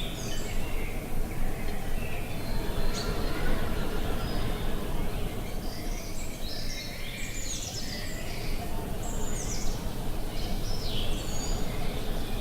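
Several birds chirping and warbling in short, repeated phrases over a steady, gusting rush of wind.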